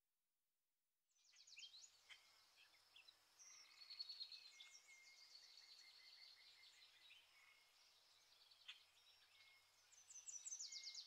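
Faint birdsong: several small birds chirping and trilling with quick repeated notes and short whistles, starting about a second in after a moment of dead silence.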